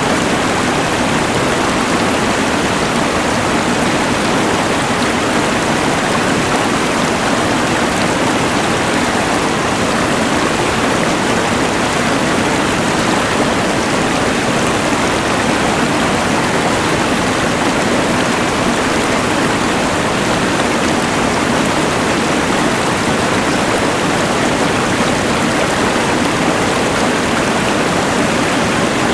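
Rushing mountain river mixed with the hiss of a LectroFan white noise machine: a steady, unbroken wash of noise.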